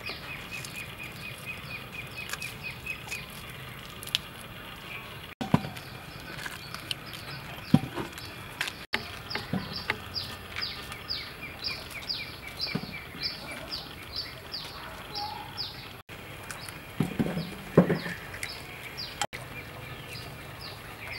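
Outdoor ambience of birds calling in long runs of short, quickly repeated chirps, with scattered taps and knocks as snake fruit is peeled and handled at a table, the loudest a pair of knocks near the end.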